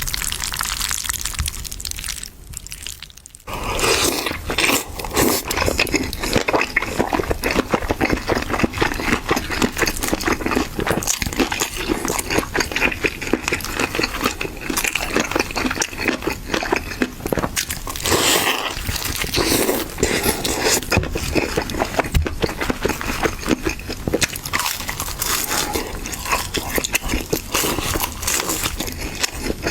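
Biting and chewing braised chicken feet, a dense run of small crunches and clicks that starts about three and a half seconds in, after a quieter opening.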